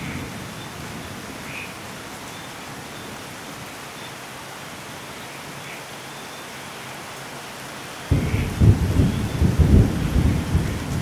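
Steady rainfall with a low rumble of thunder fading in the first second, then a loud, rolling thunder rumble starting suddenly about eight seconds in.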